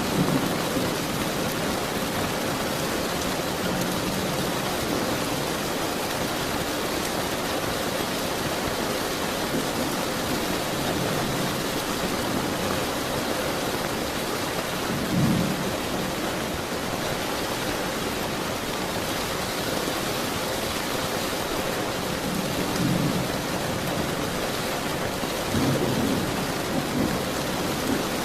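Steady rain with low thunder rumbling now and then: a short rumble about halfway through and a few more near the end.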